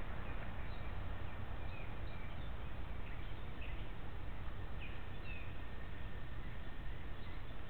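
Scattered short bird chirps over a steady rushing noise that is strongest in the low end.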